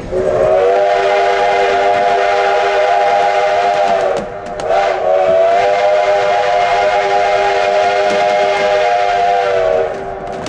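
Steam locomotive whistle blown in two long blasts, the first about four seconds and the second about five, each sounding a chord of several notes that sags slightly in pitch as the blast dies away.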